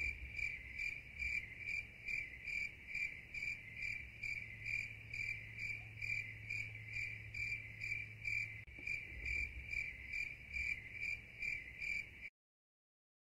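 An insect chirping in an even rhythm, about three chirps a second, over a faint low hum; it cuts off suddenly near the end.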